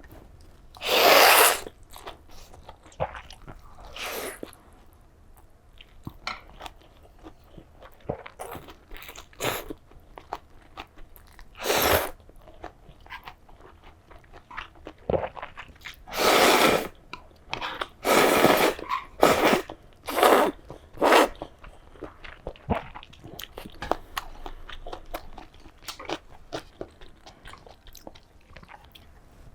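Close-miked eating of tonkotsu ramen: chewing and mouth noises, broken by several loud bursts about half a second to a second long, bunched together in the second half.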